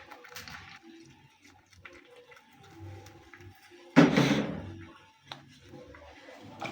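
One loud thunk about four seconds in, dying away over about a second, over faint background music.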